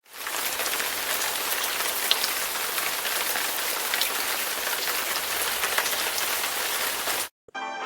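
Steady rain falling, an even hiss with scattered drop ticks, that cuts off suddenly about seven seconds in.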